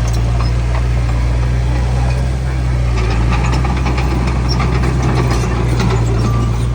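Heavy diesel earthmoving engine running steadily, with light rattling clicks over it.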